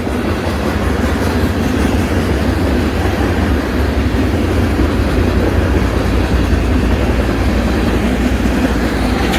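Freight train cars rolling past with a loud, steady rumble of steel wheels on the rails.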